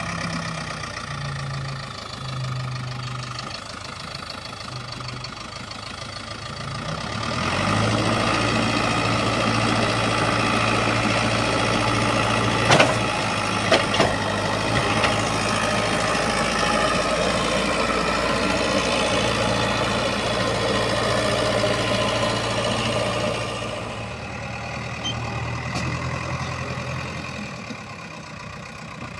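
Heavy diesel engine idling, then revving up and holding under load for about fifteen seconds before settling back to idle. A few sharp knocks come around the middle.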